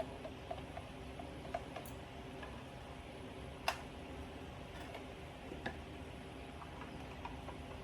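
Light scattered clicks and taps of small-part handling over a faint steady hum, with one sharper click in the middle.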